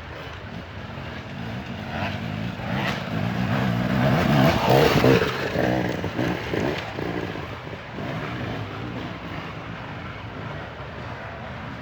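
Dirt bike engine revving as the bike rides past, growing louder to a peak about five seconds in and then fading.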